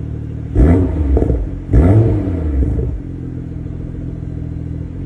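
BMW M240i's turbocharged straight-six idling through an AC Schnitzer aftermarket exhaust, blipped twice about a second apart, each rev rising and falling quickly, the second the loudest, before it settles back to a steady idle.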